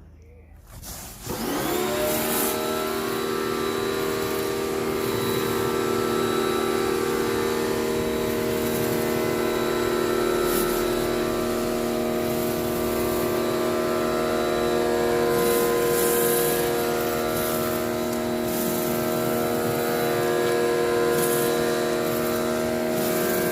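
Pressure washer starting up about a second in, its motor rising quickly in pitch and then running steadily with the hiss of the water jet as it cleans the garden paving.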